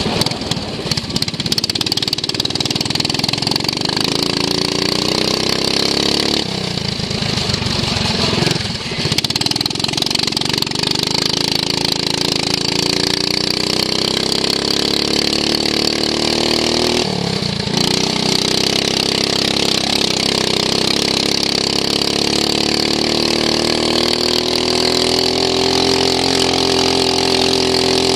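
Racing lawn mower's engine heard from onboard at race pace, with wind and bumping over the track. The engine note dips twice, about a third of the way in and again past halfway, then rises steadily over the last several seconds as it accelerates.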